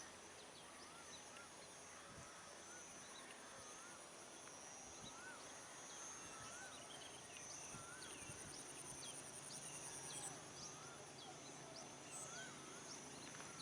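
Faint birdsong: several birds chirping, one repeating a short rising-and-falling whistle about once a second, over a steady high insect drone.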